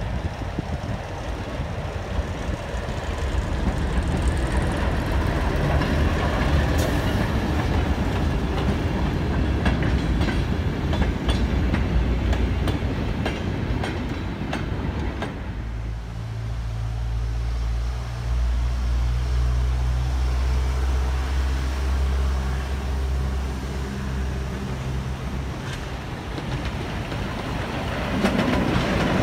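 Freight train of wagons and a brake van rolling away along the track, its wheels clicking over the rail joints. Then a small diesel shunting locomotive's engine runs with a steady low hum as it draws a train of coaches closer, getting louder near the end.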